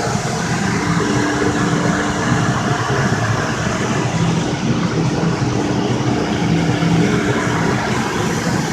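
CNC router running in a cabinet shop: a loud, steady machine noise with a constant tone underneath.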